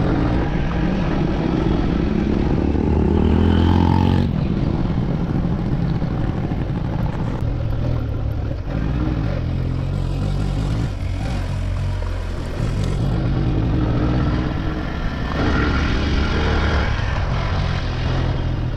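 Motorcycle engine running while riding, the revs climbing for a few seconds and then dropping suddenly about four seconds in, and rising and falling after that.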